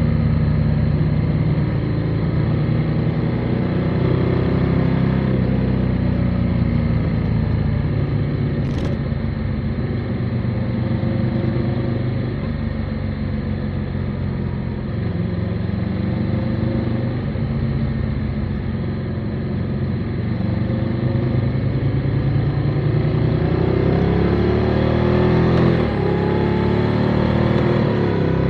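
Motorcycle engine running at road speed, its pitch rising and falling with the throttle and climbing as it accelerates near the end, with a brief sharp click about nine seconds in.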